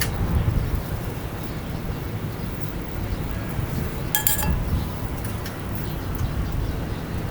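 Metal clinks from a titanium grill set in use: a short click at the start and one ringing clink about four seconds in, over a steady low rumble.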